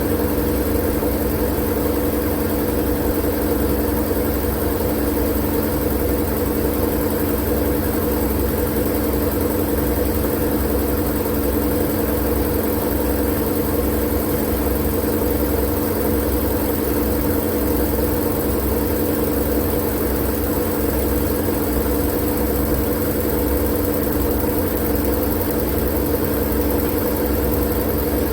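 Continuous, unchanging machine-like drone: a low rumble and a steady hum over a soft hiss, played as sleep noise.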